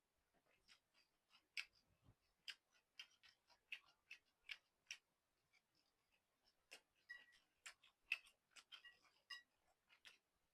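Soft, irregular wet clicks of close-up eating: chewing and mouth sounds while eating noodle soup, a few clicks a second with short pauses between.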